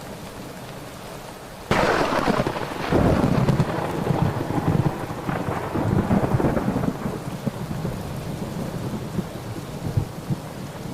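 Thunderstorm: steady rain, then a sudden loud thunderclap a little under two seconds in that rolls on as rumbling for several seconds and slowly fades back into the rain.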